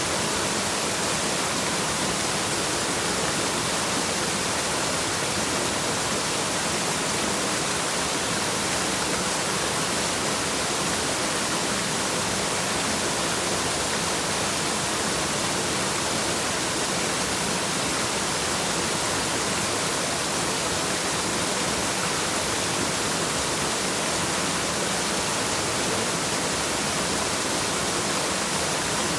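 Waterfall, water falling and splashing in a steady, unbroken hiss.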